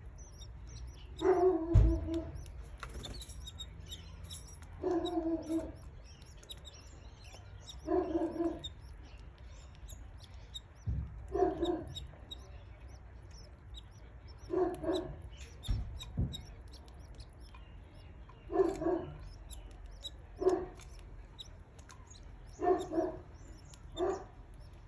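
Canary chicks chirping in faint high tweets. A louder, lower-pitched call with a clear pitch repeats about every three seconds, each under a second long, and a few dull thumps come through.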